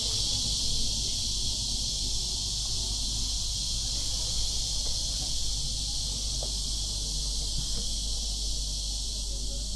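Cicadas buzzing in a steady, high-pitched chorus that eases slightly over the few seconds, with a low outdoor rumble underneath.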